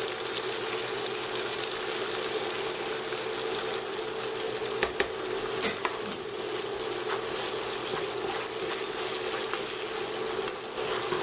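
Lemon juice with garlic and ginger sizzling and simmering in hot frying oil in a pan, over a steady low hum. A few light clicks, as of a utensil against the pan, come around the middle.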